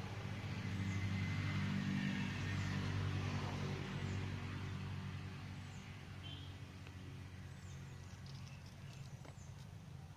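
A motor vehicle's engine hum swells, loudest about two to four seconds in, then fades as it passes. Faint high chirps of a small bird repeat about once a second.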